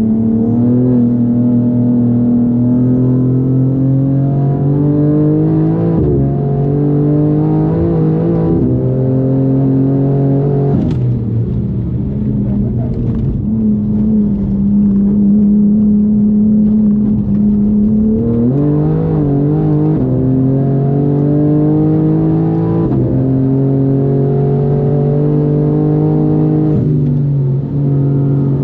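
Tuned BMW M4 G82's twin-turbo inline-six (S58) driven hard on a lap. The engine note climbs and falls through long stretches of throttle, with several sudden jumps in pitch at gear changes.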